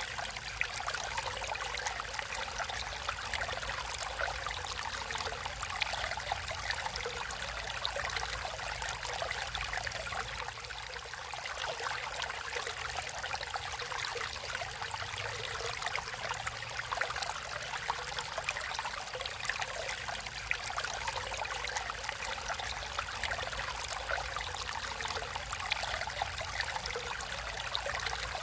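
Natural flowing water running steadily, a continuous babbling full of small splashes.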